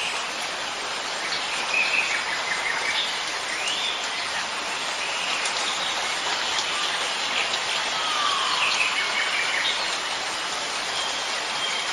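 Steady rain falling, with birds chirping and calling through it, and one falling whistle a little past the middle.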